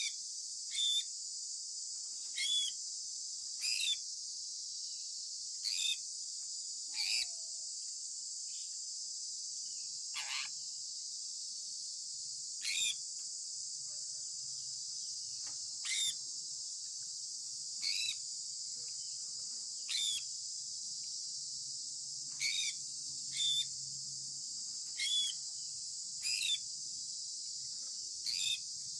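Sun conure parrot giving short, sharp chirps, one every second or two, each dropping quickly in pitch. Behind them runs a steady high-pitched hiss.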